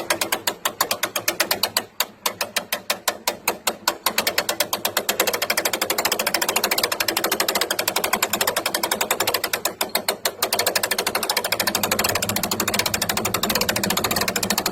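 Winch clicking rapidly and evenly as its cable pays out under the load of a riding mower rolling down the truck ramps. It breaks off briefly about 2 s in and again about 10 s in.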